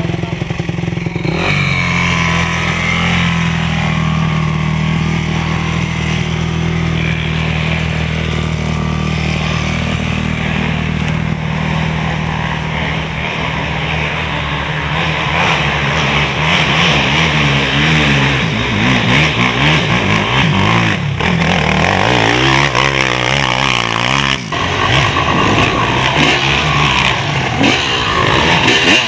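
Off-road motorcycle engines running loudly: steady at first, then revving up and down repeatedly in the second half, with a brief drop about three quarters of the way through.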